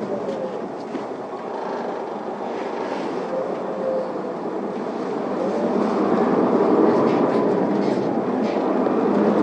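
Isuzu ERGA city bus heard from inside the cabin, its engine and drivetrain running as it pulls away from a stop and gets up to speed, growing louder from about halfway through, with a faint whine gliding in pitch.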